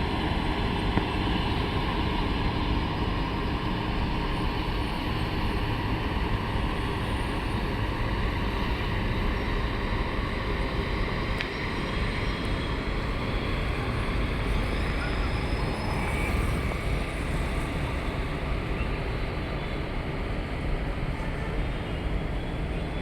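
Steady rumble of the Mahalaxmi Express passenger train, with faint voices in the background.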